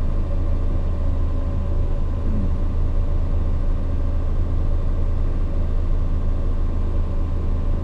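1974 Plymouth Valiant's engine idling steadily, heard from inside the car's cabin, warming up after its first start in 623 days.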